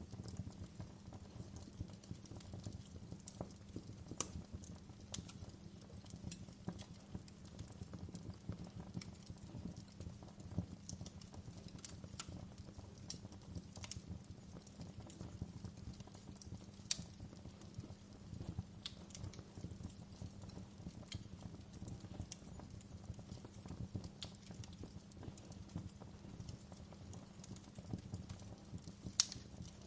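Fire crackling steadily: a dense bed of small low crackles with frequent sharp pops, the loudest about halfway through and just before the end.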